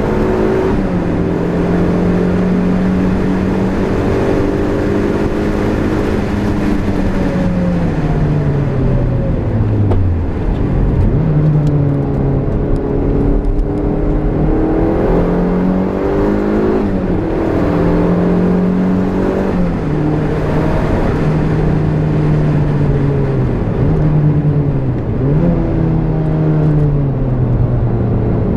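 Turbocharged Toyota MR-S's mid-mounted 1.8-litre four-cylinder engine at speed, heard from inside the cabin. Its pitch holds high for the first several seconds and then falls away steeply for about three seconds. After that it climbs and drops again in a series of steps.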